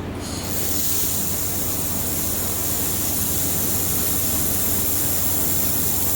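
Handheld air-cooled laser welder firing on aluminum: a steady high hiss of the weld and its shielding gas that starts sharply about half a second in, over a low steady hum.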